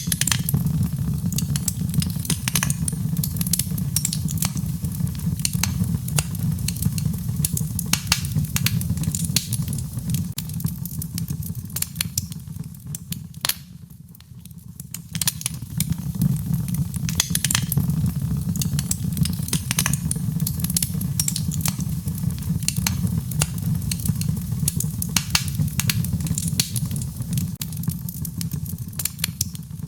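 Wood fire in a fireplace crackling: frequent, irregular sharp pops over a steady low rumble of the flames. The rumble drops away briefly about halfway through.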